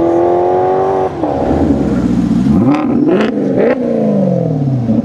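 Sports car engine accelerating hard through the gears: the pitch climbs steadily, drops at a gearshift about a second in, then rises and falls several more times as it revs and shifts, with a few sharp pops midway.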